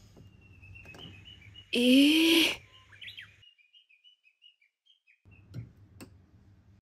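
Small birds chirping, a quick series of short high tweets. About two seconds in, a short loud rushing burst with a pitched sound bending through it is the loudest thing.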